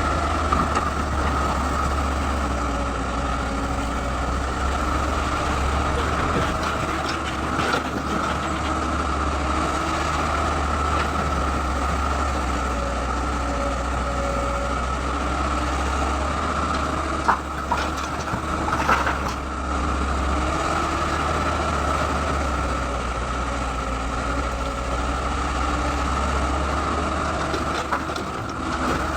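Excavator's diesel engine running steadily with a constant higher whine over a low hum, and a few sharp knocks about two-thirds of the way through.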